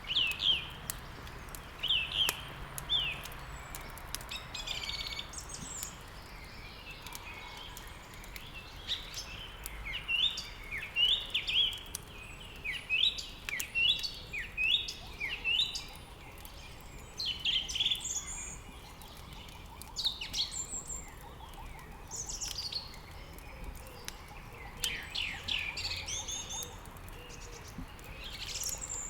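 Songbirds chirping and singing in many short, quick, falling phrases, over a faint crackle of burning wood in a fireplace.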